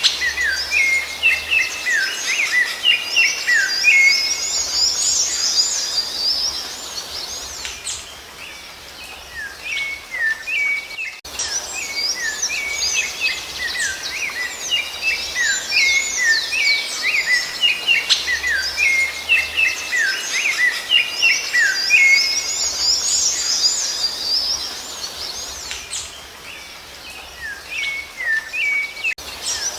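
Rufous-bellied thrush (sabiá-laranjeira) singing long runs of quick, varied whistled notes, pausing briefly twice.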